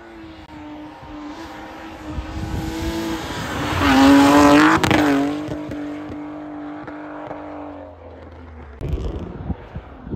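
A car's engine revving hard as it slides past through the snow. It is loudest about four to five seconds in, where its pitch drops as it passes, and the note then carries on steadily as the car moves away.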